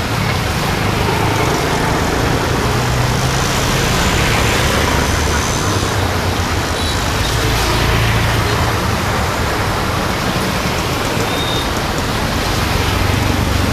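Road traffic: vehicle engines rumbling past over a continuous hiss, with one vehicle swelling louder and fading around the middle.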